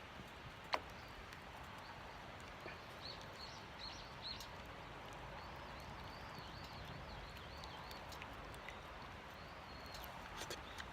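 Small wood fire in a compact stove crackling faintly, with scattered pops and one sharp snap about a second in, over a steady hiss; small birds chirp in short runs in the background.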